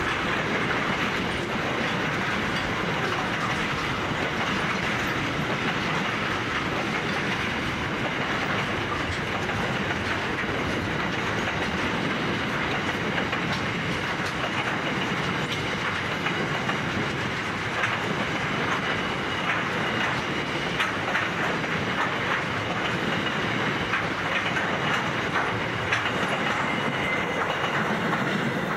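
Freight train wagons rolling past: a steady rumble of steel wheels on rail, with clickety-clack from the wheels over the rail joints. The clicks grow sharper in the second half, as empty container flat wagons go by.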